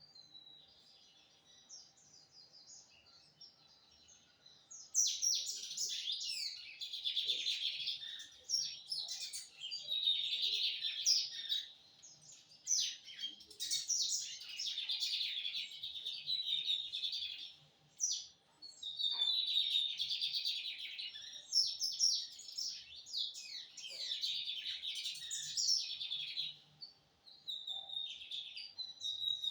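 A lined seedeater (bigodinho) singing: soft twittering at first, then from about five seconds in a loud, fast, high song given in long phrases with brief pauses between them.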